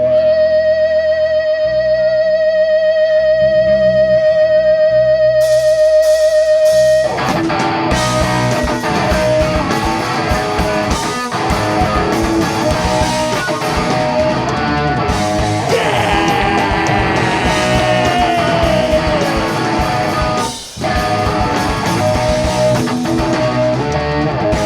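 Live rock band playing an instrumental passage: a single held note with a wavering pitch for about seven seconds, then electric guitars, bass and drums come in together. About three quarters of the way through the band stops for a moment and comes straight back in.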